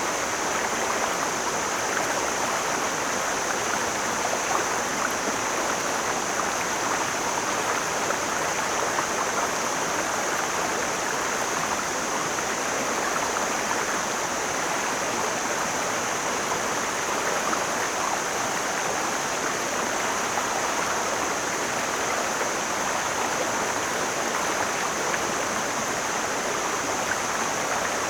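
Mountain stream flowing, a steady, even rush of water with no change over the whole stretch.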